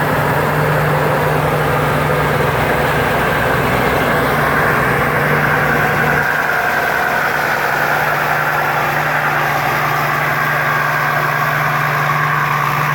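Rice combine harvester running steadily under load with a turbocharged Hino diesel engine, its engine hum mixed with the clatter of the threshing and cutting machinery. The low part of the hum drops about six seconds in.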